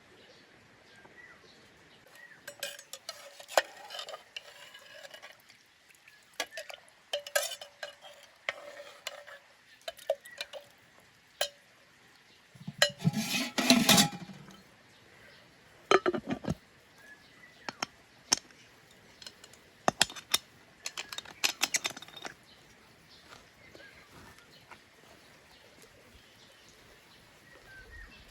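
Cooking pots and utensils clinking and knocking in scattered, irregular strikes, with a louder clattering scrape about halfway through.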